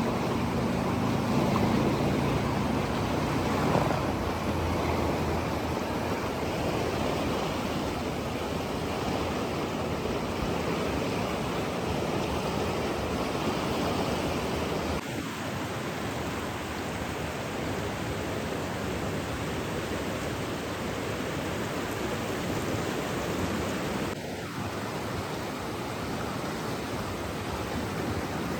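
Steady rushing water, an even hiss with no distinct drips or breaking waves. A low hum sits under it at first and fades out about four seconds in. The water noise drops a little in level about halfway through and again near the end.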